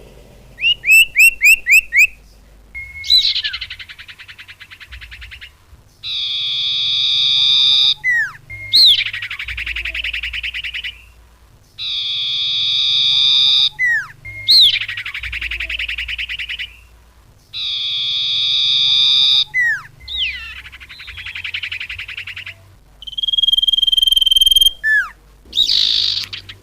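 A bird-lure recording of small songbird calls. Quick falling whistles and a rapid run of high chirps alternate with long, harsh buzzy trills, and the same sequence repeats about every six seconds as the recording loops.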